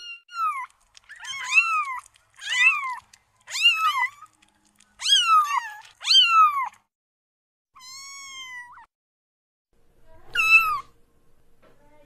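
Grey kitten mewing repeatedly: about nine short, high-pitched mews, each rising then falling in pitch, roughly one a second. A softer, longer mew comes about eight seconds in, and one more follows after a short pause.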